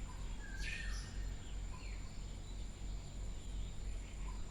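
Faint background sound: a low hum and a steady thin high whine, with a short chirp that sweeps upward about a second in and a few fainter chirps.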